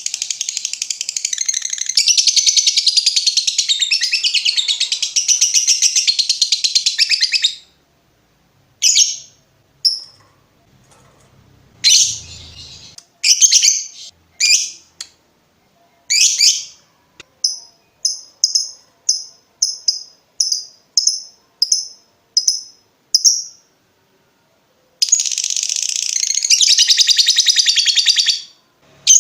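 Lovebird in its long 'ngekek' song: a loud, rapid, high-pitched chattering trill that breaks off after about seven seconds. Scattered sharp chirps follow, then a run of short ticking notes about two a second, and a second long chattering trill near the end.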